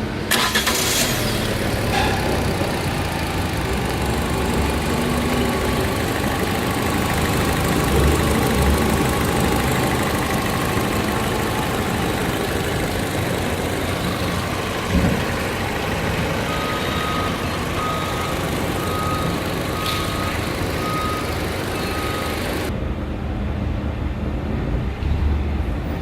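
Fiat 500 1.2 petrol four-cylinder engine (169A4000) starting and then idling steadily. A dashboard warning chime beeps repeatedly toward the end, and the higher hiss of the running engine drops away shortly before the end.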